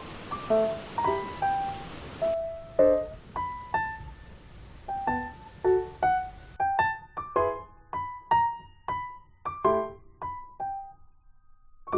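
Background music: a piano playing a gentle melody of single struck notes and light chords, about two notes a second, each ringing away.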